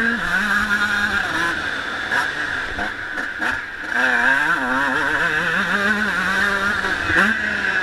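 Honda CR125 two-stroke single-cylinder motocross engine at full riding speed, its pitch rising and falling several times as it revs up and drops back, with a dip about three and a half seconds in before it climbs again. Wind noise rushes over the microphone throughout.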